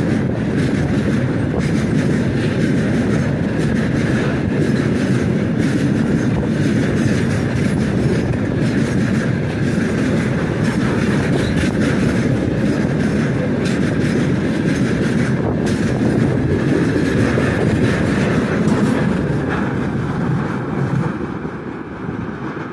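Freight train of rail tank cars rolling past close by: a steady loud rumble with frequent wheel knocks on the rails, fading near the end as the last car goes by.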